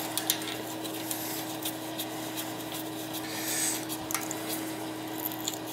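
Faint clicks and rubbing from toilet parts being handled, over a steady low hum.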